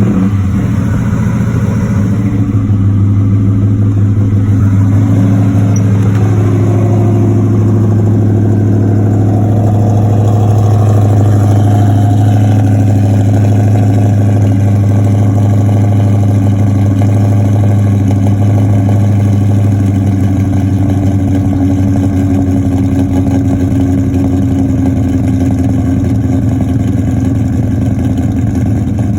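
Exhaust of a 2003 Mustang Mach 1 on a cold start: the DSS Racing Supermod 5.0 stroker V8 with Comp XER cams, breathing through BBK long-tube headers, an off-road H-pipe and a Magnaflow cat-back. It fires up right at the start at a high cold idle. The idle settles lower over the first several seconds, then runs steadily.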